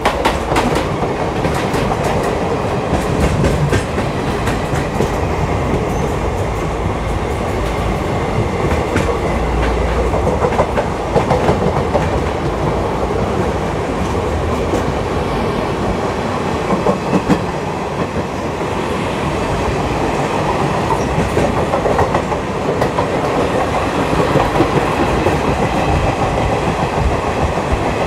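Two Indian Railways passenger trains running side by side on parallel tracks, heard from beside the coaches: a steady, loud rumble of wheels on rail with a running clatter of clicks from the rail joints.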